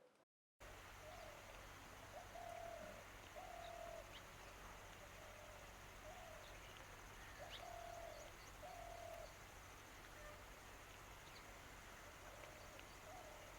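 Faint outdoor ambience in which a bird gives soft, short hooting calls, one about every second, over a steady low hum and hiss, with a few faint high chirps; it begins about half a second in.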